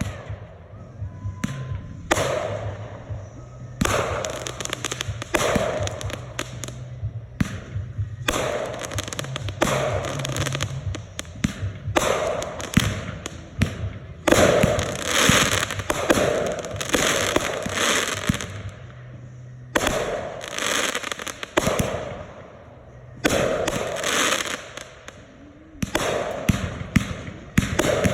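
Consumer fireworks going off one after another: repeated bursts of rapid popping and crackling, each lasting a second or two, with a new burst about every two seconds.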